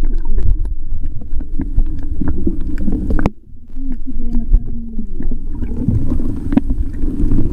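Muffled water rumble picked up by a camera in or under the water, with many scattered clicks and knocks; the rumble drops out briefly a little over three seconds in.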